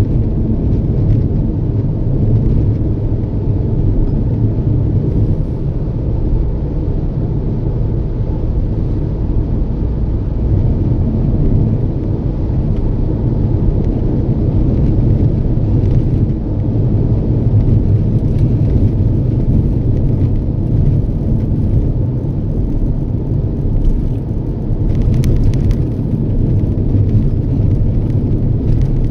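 Toyota Yaris driving at steady speed: a continuous low road and engine rumble.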